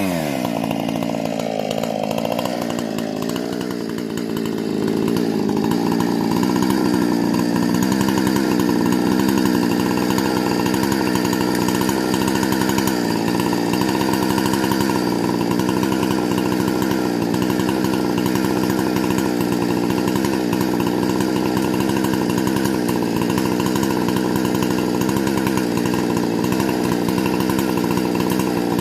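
Husqvarna 460 two-stroke chainsaw with a modified carburetor and muffler running. Its engine speed drops and wavers over the first few seconds, then it settles into a steady, louder run at a constant pitch.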